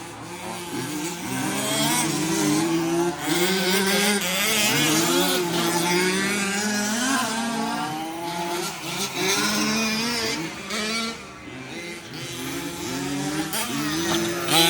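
Several remote-control 4WD race trucks' motors whining together, each pitch rising and falling as they accelerate and brake around the track. There is a brief lull about three quarters of the way through.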